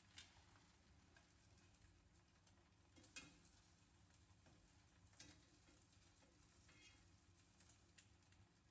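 Faint sizzling in a frying pan, with a few light clicks scattered through it.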